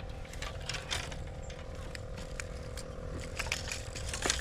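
Small battery-powered aerator pump on a minnow bait bucket running with a steady hum, with scattered light clicks and taps, the loudest near the end.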